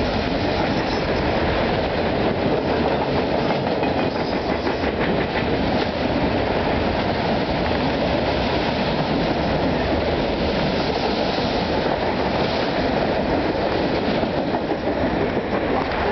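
Norfolk Southern freight train's autorack cars rolling past close by: a steady noise of steel wheels on the rails, with wheel clicks over the rail joints.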